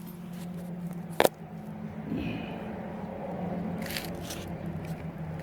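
Handling noise from setting up a drone: a sharp click about a second in, then rustling and scraping over a steady low hum.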